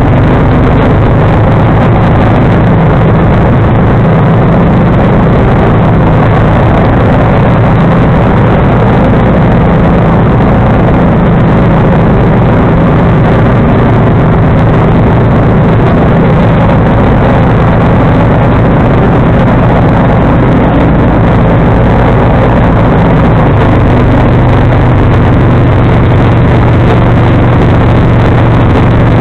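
John Deere 445 garden tractor's V-twin engine running steadily under load with its 47-inch front snowblower engaged, a loud continuous drone. The pitch shifts slightly late on.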